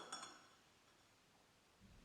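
A light clink of glass or dishware with a short ring that dies away within half a second, then near silence with a soft low thump near the end.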